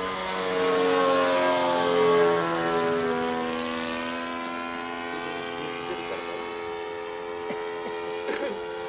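Radio-controlled model airplane's engine and propeller in flight, loudest about two seconds in with its pitch falling, then running on as a steadier, quieter drone.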